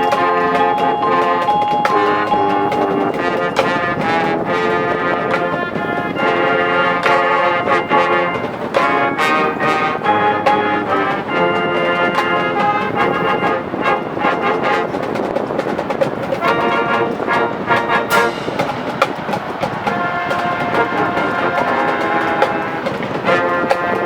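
High school marching band playing: full brass chords held and shifting every second or so, over sharp drum and percussion hits.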